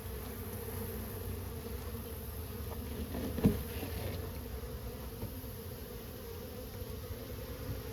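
A colony of honeybees buzzing steadily, a continuous hum, with a single knock about three and a half seconds in.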